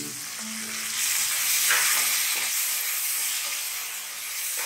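Chopped tomatoes sizzling in hot ghee in a kadai, stirred with a wooden spatula. The sizzle swells about a second in, then slowly dies down as the tomatoes cool the fat.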